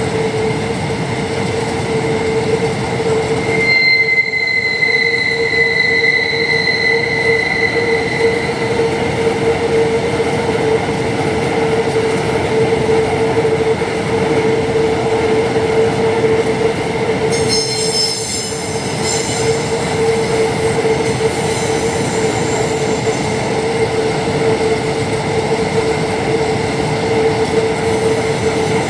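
Empty iron-ore train's wagons rolling by with a steady rumble and a constant ringing wheel squeal. A higher, slightly falling squeal sounds from about four seconds in, and a cluster of shrill high squeals comes in around seventeen seconds in.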